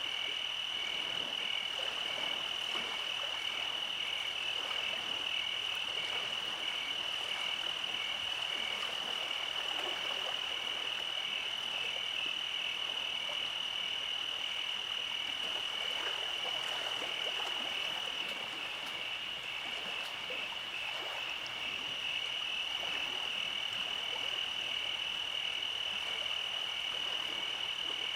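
Night chorus of frogs: a steady high trill with a pulsing call repeating about twice a second over a soft bed of fainter calls.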